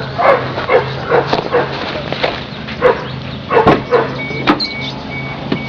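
A dog barking over and over, over a steady low hum. About four seconds in, an electronic beeping starts, roughly two beeps a second.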